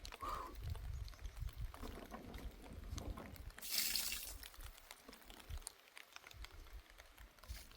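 Water dripping and trickling, with a brief hissing pour or splash about four seconds in.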